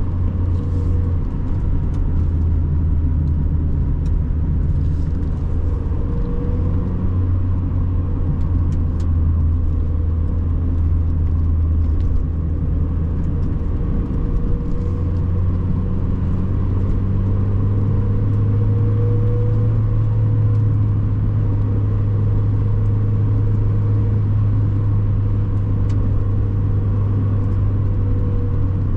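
1997 Mazda MX-5 Miata's 1.8-litre four-cylinder engine running under way at a fairly steady cruise, a low drone that shifts a little in pitch a few times with speed, over road and tyre noise.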